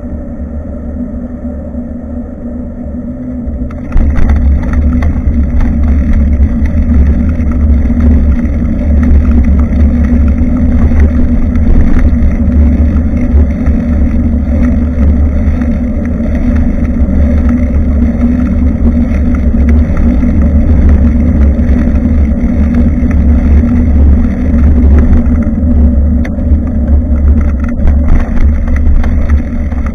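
Steady low rumble of wind and riding noise on a bicycle-mounted action camera's microphone, jumping much louder about four seconds in.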